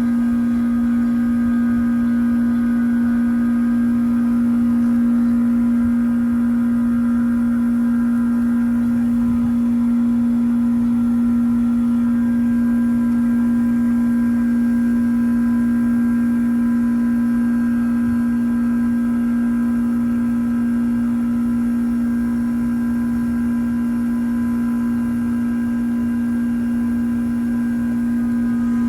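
2007 Trane XR13 heat pump outdoor unit running during a defrost cycle: a loud, steady hum with fainter high tones above it, unchanging throughout.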